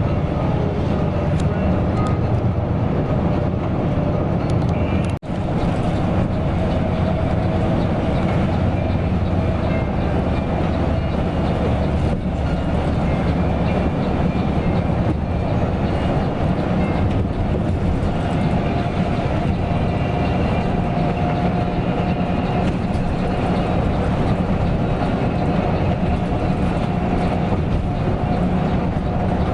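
Coach bus travelling at speed, heard from inside: a steady low engine and road rumble with a faint whine above it. The sound drops out briefly about five seconds in.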